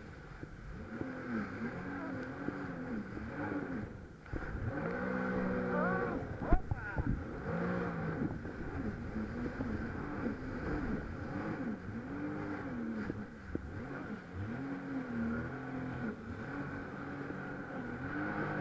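Jet ski engine running under way, its pitch rising and falling again and again as the throttle and speed change, with water and wind noise. A sharp knock about a third of the way in is the loudest moment.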